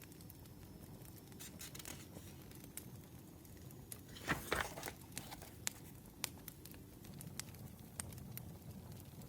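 Wood fire crackling: scattered sharp pops and ticks over a low, steady rumble, with a brief louder rustle a little past four seconds in.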